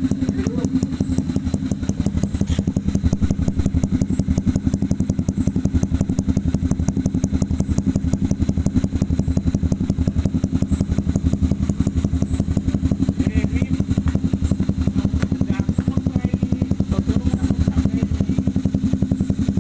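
Honda CB150R single-cylinder engine running steadily at idle through an aftermarket SC Project-style exhaust, giving an even, rapid train of exhaust pulses with no revving.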